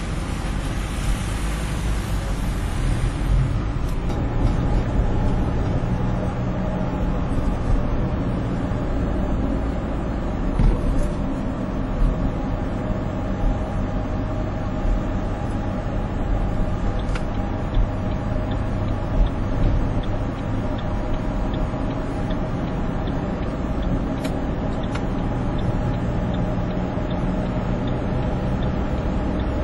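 Steady highway traffic noise: engine drone and road rumble of vehicles moving among heavy trucks, with a high hiss that stops about three seconds in.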